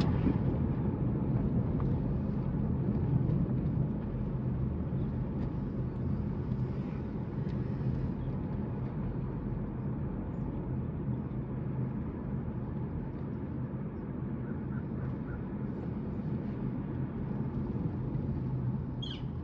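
Steady road and engine noise heard inside a moving car's cabin: a low hum that eases slightly about four seconds in.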